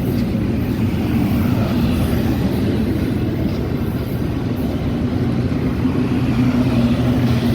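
Metra commuter train coach running along the track: a steady rumble of wheels on rail with a low hum that grows a little stronger near the end.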